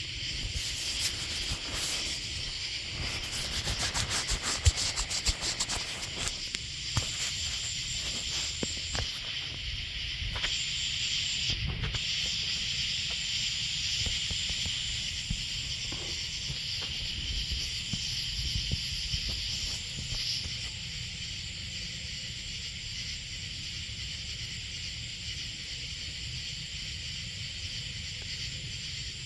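Camera lens being wiped close to the microphone: scratchy rubbing and handling clicks for about the first twelve seconds, then it settles. A steady high chorus of night insects carries on throughout.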